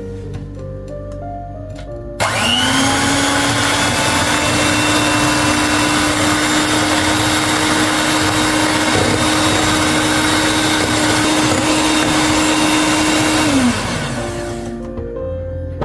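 Electric kitchen mixer motor switched on about two seconds in, spinning up quickly to a steady whine and running for about eleven seconds, then winding down with falling pitch as it is switched off.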